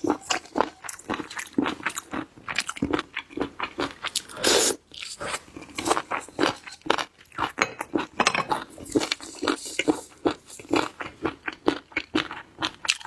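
Close-miked crunching and chewing of seafood: many quick, irregular crisp bites and chews, with a louder, longer crunch about four and a half seconds in.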